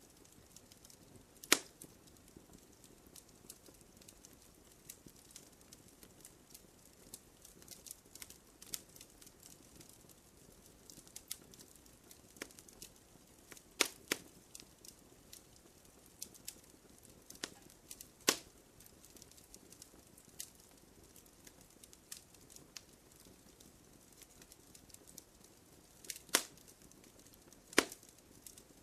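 Campfire crackling: a soft steady hiss of flames with scattered small clicks and a handful of sharp, louder pops as the burning wood bursts.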